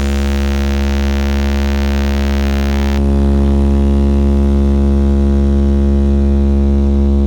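A loud, steady low buzzing bass drone, one unchanging tone with many overtones, played through a large Blizzard Audio street sound system. About three seconds in, the hiss above the tone drops away.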